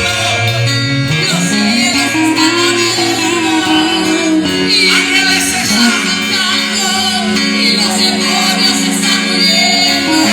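Live worship band music: a bass line stepping up and down between notes under guitar, with singing and a drum kit's cymbals.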